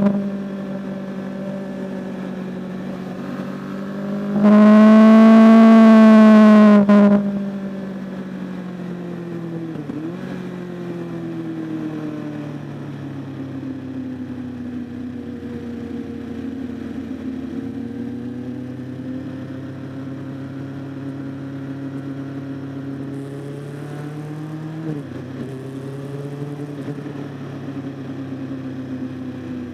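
Superbike engine running at low to moderate revs with a slowly wandering pitch. It is much louder for about two and a half seconds near five seconds in, and its pitch briefly breaks about ten seconds in and again around twenty-five seconds.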